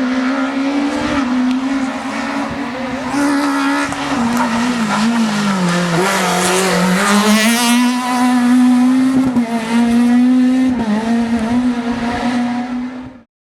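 Škoda Octavia Kit Car rally car's four-cylinder engine running hard at high revs. The pitch dips about five seconds in and climbs back up about two seconds later, and the sound cuts off suddenly near the end.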